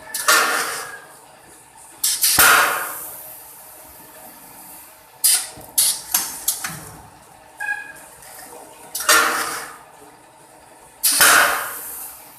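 Automatic 5 kg rice packaging machine running: sudden rushes of noise that fade over about a second, recurring every two to three seconds, with a few short clicks and knocks in between.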